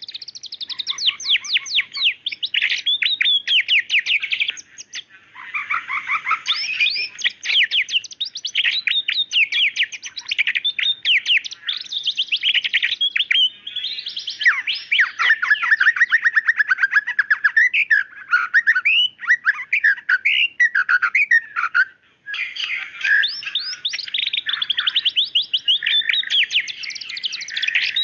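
White-rumped shama (murai batu) in full, loud song: long runs of rapid-fire sharp notes and fast trills mixed with varied whistled phrases, with brief pauses about five seconds in and near the end.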